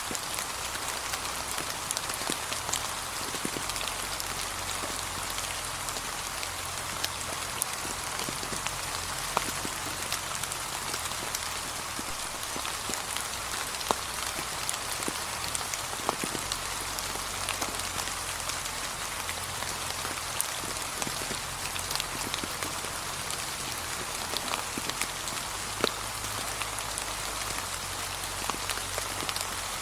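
Steady light rain falling on fallen leaves, a continuous patter with many separate sharp drops and a faint low rumble beneath.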